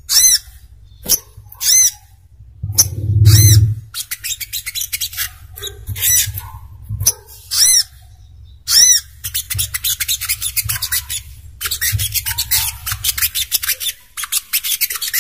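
Sogok ontong songbird calling: sharp, high notes that rise and fall, about one a second, then a fast chattering trill from about nine seconds in. A steady low hum lies underneath.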